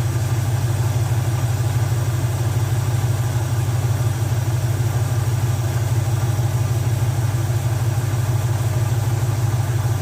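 Chevrolet 350 cubic-inch small-block V8 idling steadily, its carburetor's idle mixture screws being set.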